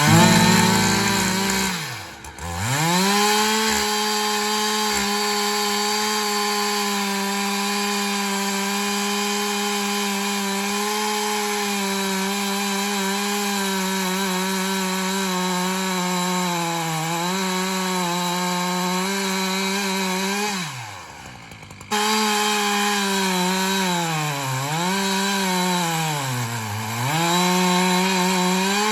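Husqvarna 365 X-torq two-stroke chainsaw on an Alaskan mill, running at high revs with a ripping chain cutting lengthwise through oak. The engine note drops sharply about two seconds in and recovers, falls away and goes quieter around twenty seconds before snapping back to full speed, and sags twice in pitch near the end.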